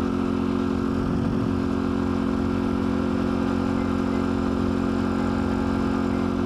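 Pit bike engine running at a steady pace while riding, its note holding even with no revving up or down.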